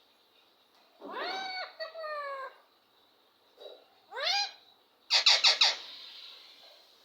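Ringneck parrot calling: drawn-out, arched calls that rise and fall in pitch, then a burst of four quick, loud, sharp calls about five seconds in.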